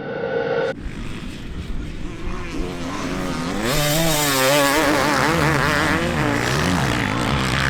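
Motocross bike engines revving hard, the pitch swinging rapidly up and down with the throttle, growing louder a few seconds in as the bikes come close.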